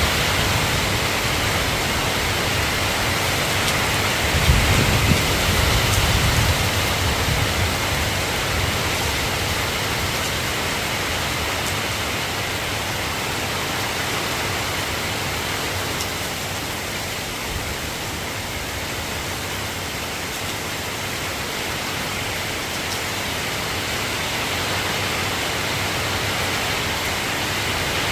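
Steady rain falling, an even hiss of drops. A low rumble swells and fades about five seconds in.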